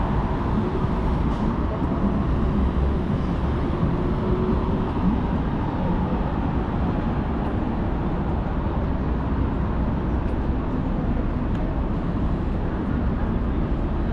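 Steady city traffic noise: a continuous low rumble of vehicles passing on a downtown street.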